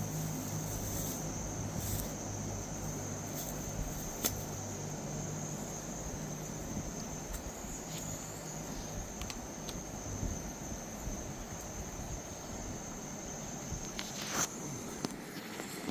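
Steady high-pitched insect buzzing, like crickets, over a background rush, with a low hum that fades out in the first half and a couple of sharp clicks.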